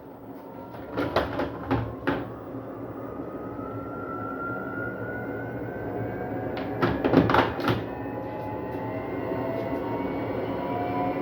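Arctic washing machine running a service-mode test, its drum motor whining and rising slowly in pitch as it speeds up. Sharp knocks come in a quick group of four about a second in and a louder group about seven seconds in. These are the bad noises the owner flags during a suds-lock fault.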